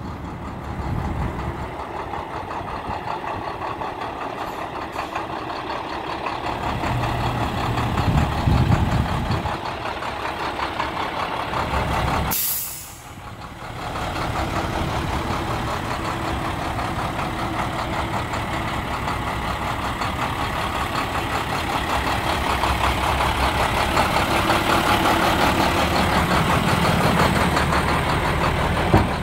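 Medium-duty diesel box truck engine running steadily, with a short sharp hiss about halfway through.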